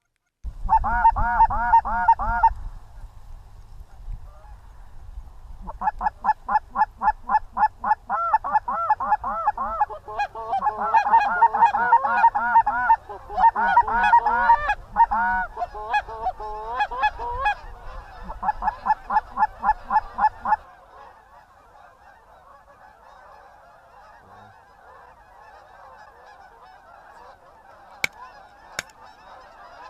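Canada goose honking in rapid runs, several honks a second: a short burst, then a long run that stops about two-thirds of the way through. A fainter steady hiss follows, with two sharp clicks near the end.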